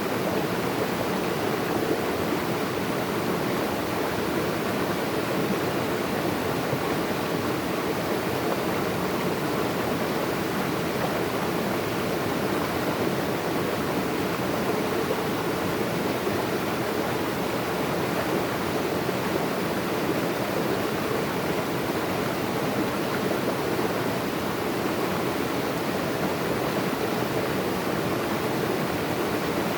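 Running water flowing with a steady, even rush.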